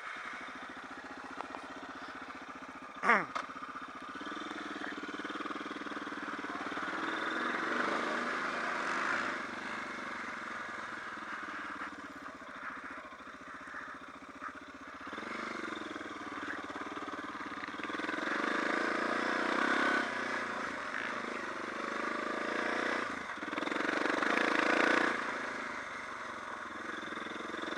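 Suzuki DR650's single-cylinder engine running as the bike rides along at low speed, swelling and easing with the throttle. About three seconds in, a brief loud sound slides down in pitch.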